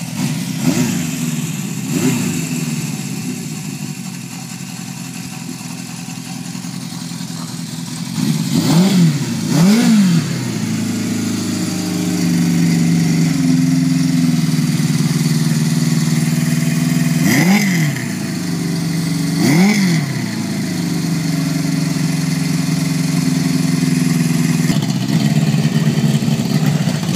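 1978 Honda CB750's inline-four running through a 4-into-1 exhaust, idling steadily with quick throttle blips that rise and fall, mostly in pairs, about a second, nine seconds and eighteen seconds in.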